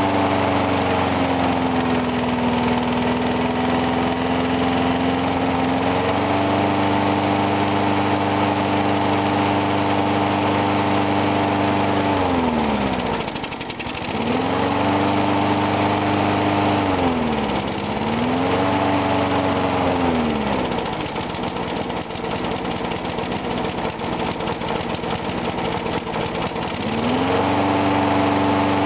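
Briggs & Stratton 4 hp lawn mower engine running after a cold start, its speed wavering. About twelve seconds in it slows sharply almost to a stall and picks back up, dips again a few seconds later, runs slower and unevenly for several seconds, then speeds back up near the end.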